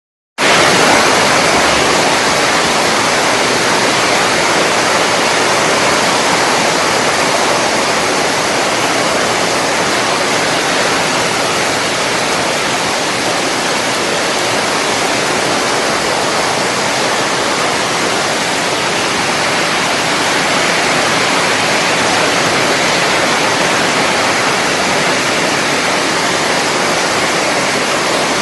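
Heavy rain pouring down in a loud, steady hiss. It cuts in abruptly about half a second in.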